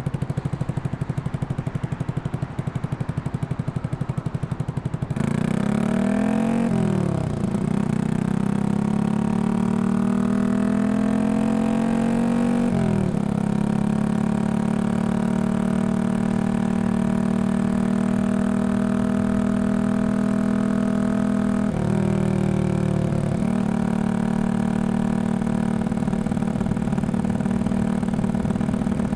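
Yamaha XSR155's single-cylinder engine, bored up to 183cc and breathing through a Norifumi full exhaust, idling for about five seconds, then pulling away. The revs climb and fall back at gear changes about seven and thirteen seconds in, hold steady while riding, and dip again briefly around twenty-two seconds in.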